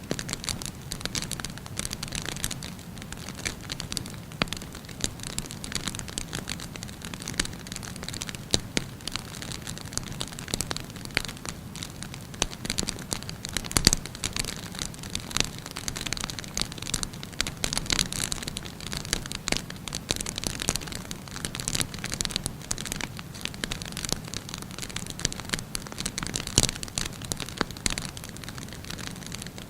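Burning wood fire crackling: a dense run of small pops and snaps over a steady hiss, with a louder pop about halfway through and another near the end.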